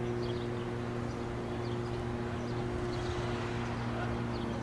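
Steady mechanical hum of a train at the station, a stack of several held low tones that stays even throughout, with faint bird chirps above it.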